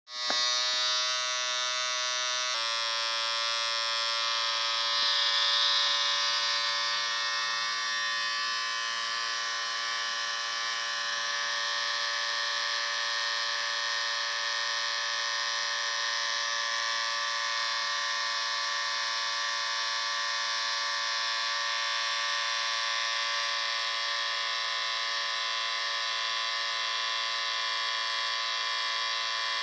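Electric shaver running with a steady buzz, starting right at the beginning; its pitch shifts slightly about two and a half seconds in, then holds.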